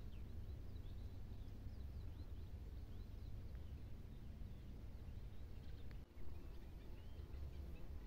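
Faint chirping and twittering of small birds over a steady low rumble.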